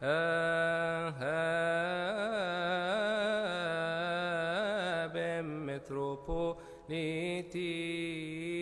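A man's voice chanting a Coptic liturgical hymn in long melismatic phrases, each syllable drawn out over many wavering, ornamented turns of pitch, with brief breaths between phrases.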